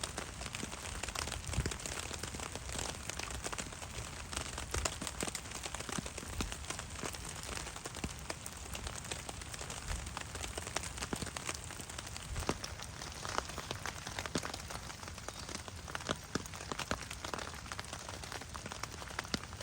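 Heavy rain falling steadily, with many sharp individual drop hits.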